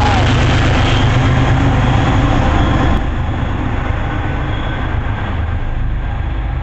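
MBTA Commuter Rail train passing close, a loud steady rumble and rush of wheels on rail. Right at the start the tail of its painfully loud horn falls in pitch and cuts off. The noise drops noticeably about three seconds in.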